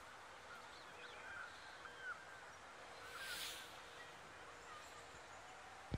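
Faint outdoor ambience with small birds chirping sporadically, a brief rustle about three seconds in, and a faint steady hum.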